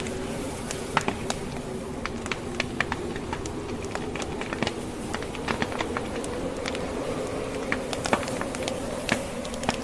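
Wood fire crackling, with irregular sharp pops several times a second over a steady, wavering low buzzing hum.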